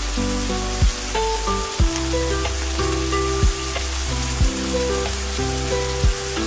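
Steady rain hiss over soft background music with held notes, a low bass and a short low thump every second or so.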